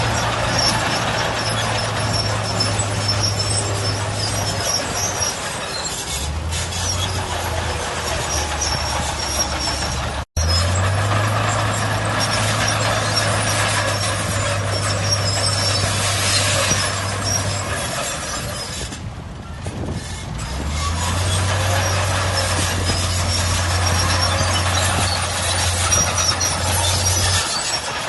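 Heavy earthmoving machinery working: a diesel engine running with a dense mechanical clatter and hiss. A low engine note comes and goes in long stretches, and the sound drops out for an instant about ten seconds in.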